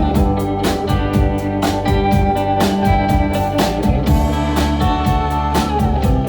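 Live rock band playing loud amplified music: electric guitars and bass over drums keeping a steady beat.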